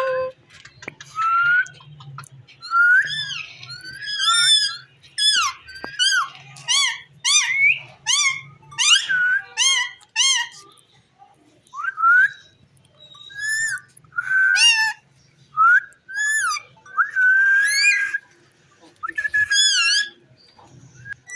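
Indian ringneck parrot giving a long run of short, shrill whistled calls, many sweeping sharply up or down in pitch, with brief pauses between them.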